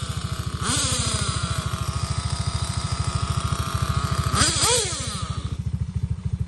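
Small nitro RC car engines revving in quick rising-and-falling throttle blips, once about a second in and twice more about four and a half seconds in. Under them runs a steady, rapid low pulsing from an engine at idle.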